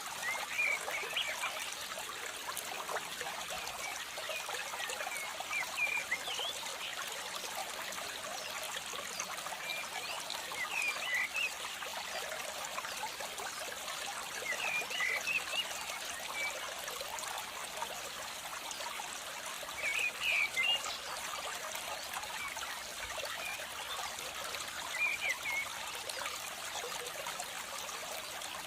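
Steady trickling water with a short cluster of high chirping calls about every five seconds, six times in all.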